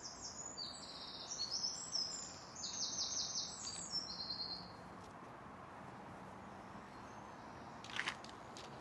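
A small songbird singing high, rapidly repeated trilled phrases for about four and a half seconds, then a faint steady background hiss, with a brief cluster of clicks near the end.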